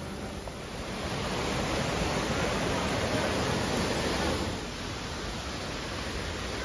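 Shallow rocky jungle stream rushing over boulders, a steady hiss of running water that swells about a second in and eases a little just past the middle.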